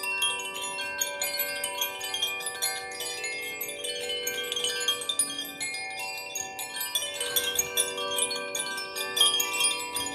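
Chimes ringing continuously: many overlapping sustained tones, with a constant light tinkling of fresh strikes higher up.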